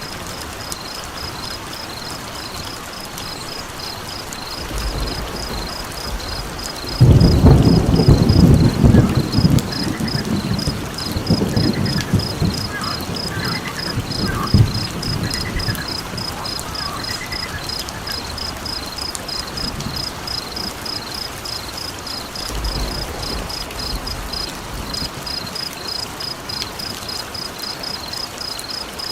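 Steady rain with a high, rapid, evenly pulsing chirp going on behind it. About seven seconds in, a loud low rumble of thunder breaks in and fades away over several seconds, and a fainter rumble comes near the end.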